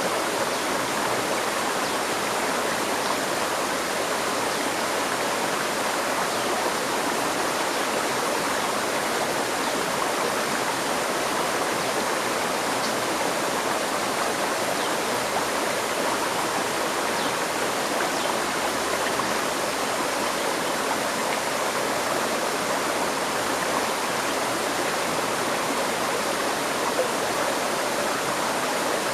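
River stream flowing: a steady, even rush of water over rocks that does not change.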